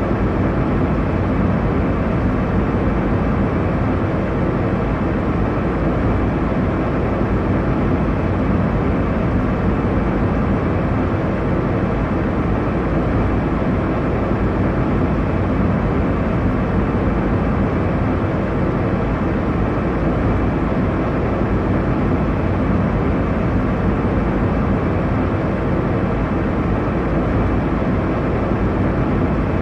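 Airliner cabin noise: a steady low rushing drone of engines and airflow, even and unchanging, heaviest in the low end.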